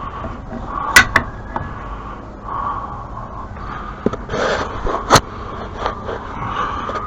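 Sharp knocks and clatter of parts and tools being handled during repair work: two close knocks about a second in, a rustling scrape around four and a half seconds, and a louder single knock a little after five seconds, over a steady background hum.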